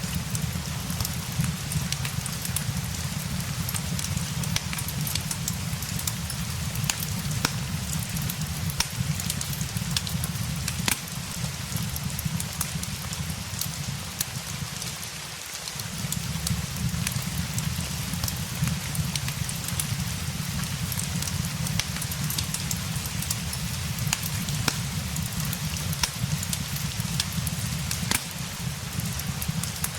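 Ambience mix of steady rain with a crackling fireplace: an even hiss of rain under frequent sharp pops and crackles, over a low rumble that fades out briefly about halfway and then returns.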